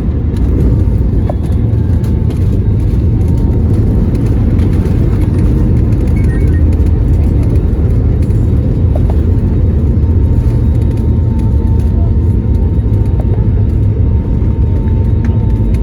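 Steady low rumble of a moving vehicle heard from inside the cabin, with a faint steady whine above it.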